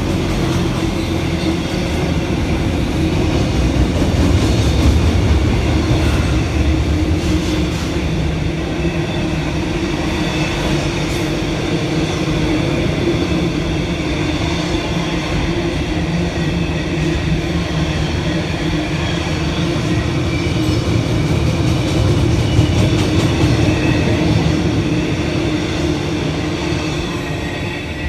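A train running steadily for the whole stretch, a continuous rumble with a steady hum.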